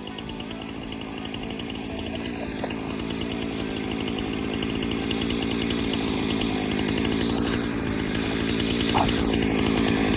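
Jonsered CS2255 two-stroke chainsaw running steadily, growing gradually louder.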